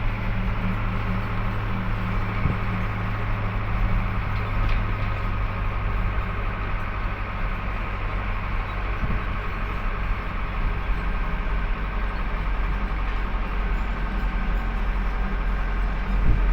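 Heavy truck's engine and road noise, a steady low drone that gets louder just before the end.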